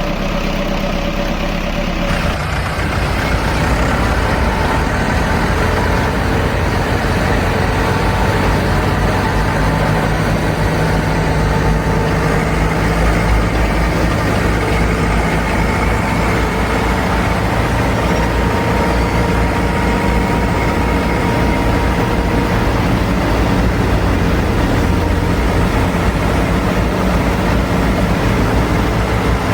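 Motor of a mini tractor's wheat threshing machine running steadily, with a faint steady whine over its hum; it picks up and grows a little louder about two seconds in.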